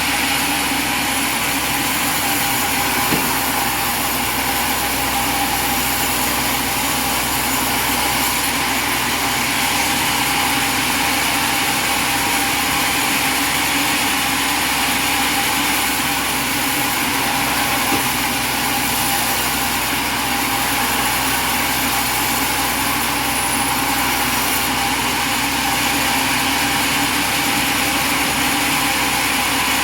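Light sawmill's engine running steadily at an even speed.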